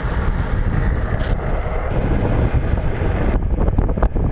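Wind buffeting the microphone of a moving e-bike rider, a loud, steady rush of noise heaviest in the low range.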